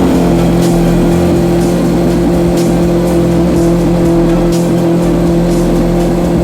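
Lamborghini Aventador SV Roadster's V12 engine, breathing through high-flow cats and a titanium exhaust, holding a steady engine speed with an even, constant note.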